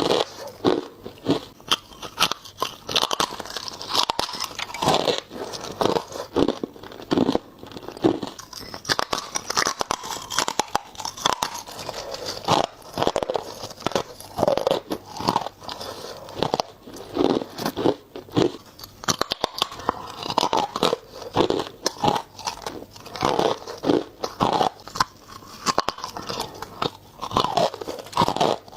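Ice being bitten and crunched between the teeth close to the microphone: crisp crunch after crunch in quick clusters, bite after bite.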